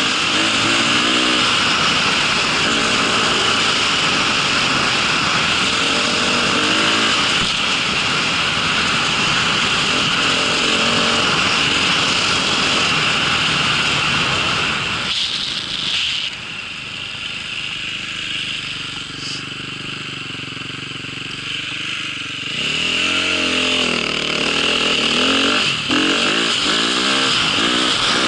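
A vehicle engine running under load with a steady rush of noise, its pitch rising and falling with the throttle. About halfway through it drops back to a lower, quieter run for several seconds, then revs up again near the end.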